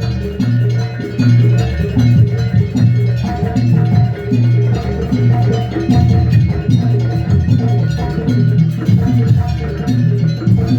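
Live jaranan music from a Banyuwangi percussion ensemble: drums and struck pitched percussion playing a steady repeating pattern over a recurring low tone.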